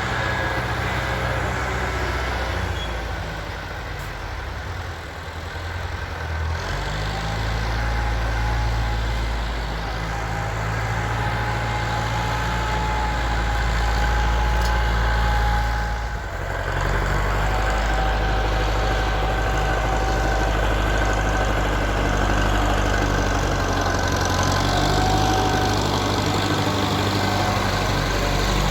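Tractor's diesel engine running steadily at a low, heavy note with a faint whine above it. The engine note shifts about a quarter of the way in and dips briefly around the middle.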